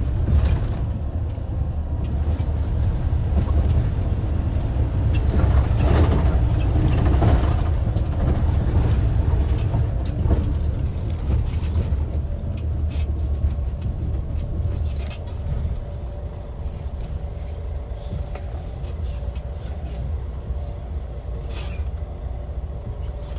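Hyundai D6CC Powertec 380 diesel engine of a Hyundai Universe Comfort coach running with a deep, steady rumble, heavier through the first half. It eases off about fifteen seconds in, and a few short clicks sound over it.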